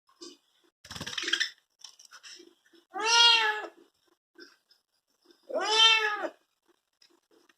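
A cat meowing twice, each meow under a second long and rising then falling in pitch, with a short scuffing noise before the first.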